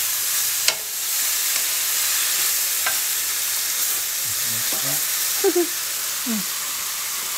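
Minced pork, onion, tomato and cucumber sizzling steadily in a Teflon-coated wok, with a wooden spatula stirring and tapping against the pan a couple of times in the first few seconds.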